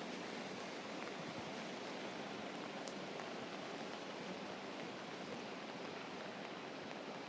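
Steady rain falling on an umbrella and wet ground, with a couple of faint ticks.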